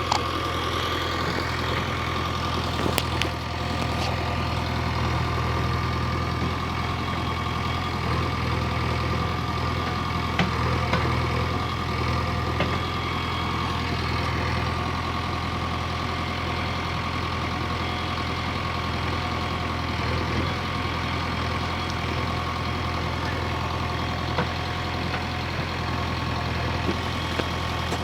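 Heavy diesel engine running steadily at a low, even speed, with a few light clicks along the way.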